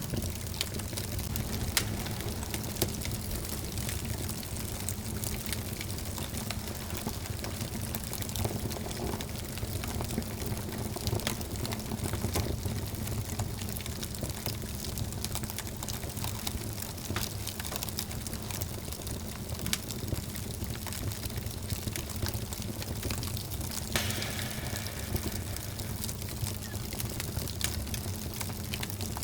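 Wood fire burning in a fireplace: a steady low rumble of flames with frequent small crackles and a few sharper pops.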